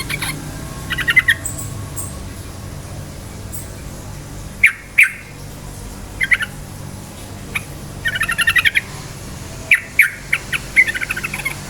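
Yellow-vented bulbul singing in short, rapid, bubbly phrases, about half a dozen bursts, with a steady low hum underneath.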